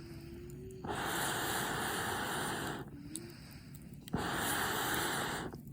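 Two long breathy blasts of blown air, each about two seconds, with a pause of about a second between them; a sharp click starts the second.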